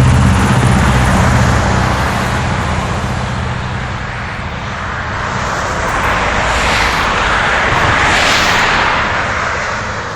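Vehicle noise: a steady low engine hum under a rush of road noise that swells and fades again about seven to nine seconds in.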